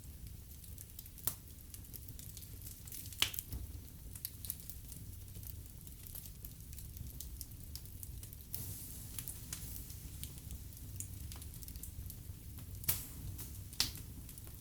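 Wood fire burning in a fireplace: a low steady rumble of flames with scattered crackles and sharp pops, the loudest pops about a second, three seconds, and thirteen to fourteen seconds in.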